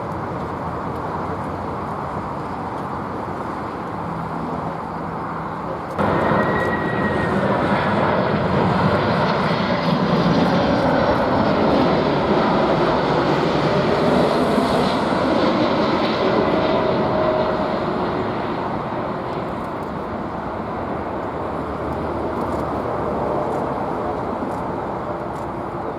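Jet airliner's engines passing close by: a loud rushing noise with a high whine, starting abruptly about six seconds in, peaking, then fading away.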